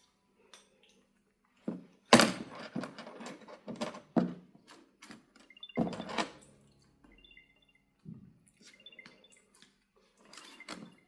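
A series of knocks, thuds and clatters, as of things being handled or a door or cupboard being opened and shut, the loudest about two seconds in and again about six seconds in.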